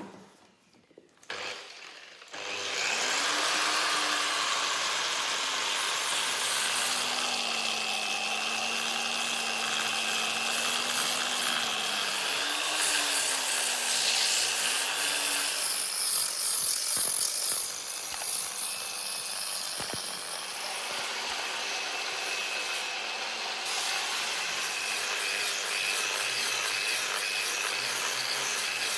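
A power tool starts about two seconds in and runs steadily through the rest, a harsh hiss over a motor tone that wavers up and down as the load changes.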